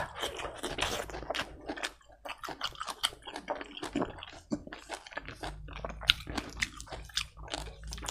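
Close-miked chewing of a mouthful of rice and green vegetables, with wet mouth sounds and many small crunches and clicks.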